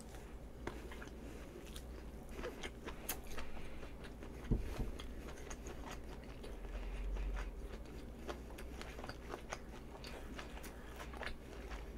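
Close-miked chewing of a bread filled with sausage, cheese and chopped jalapeño, mouth closed, faint, with small wet clicks. A single soft knock about four and a half seconds in.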